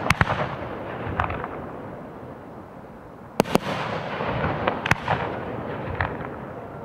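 1.3G professional aerial firework shells firing and bursting. There are sharp bangs just after the start, a close pair about three and a half seconds in and another about five seconds in. Each bang is followed by a rolling echo, with smaller pops in between.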